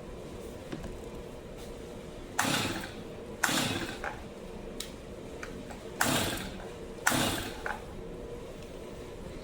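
Stihl MS 250 two-stroke chainsaw being pull-started: four pulls of the recoil starter in two pairs, each a short whir of rope and cranking engine that fades out. The engine never fires, a no-start with spark present.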